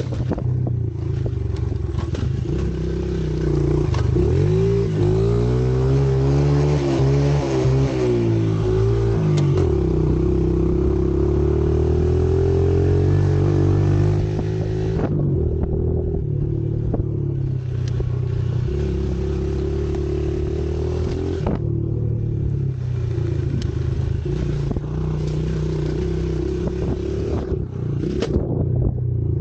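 Pit bike engine running, revved up and down several times in the first half, then running steadier at a lower pitch.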